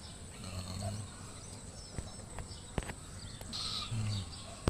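Faint, short chirps of small birds over outdoor background noise, with a few sharp clicks and two brief low hums.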